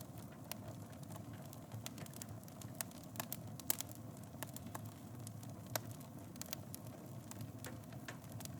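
Fireplace fire crackling: irregular sharp pops and snaps over a low, steady rumble of the flames, with one louder pop a little before the middle.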